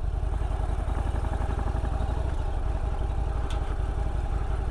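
Harley-Davidson Road Glide CVO's V-twin engine running steadily at low revs, with even firing pulses, as the motorcycle rolls along slowly.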